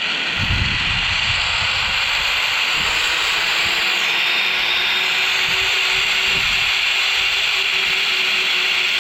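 Zipline trolley running along the steel cable: a steady rushing hiss, with a faint steady hum from the pulleys that comes in about three seconds in.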